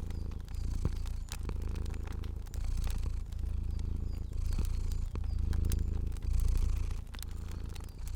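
Cat purring in a deep, steady rumble that swells and eases about once a second, with scattered sharp crackles from a wood fire.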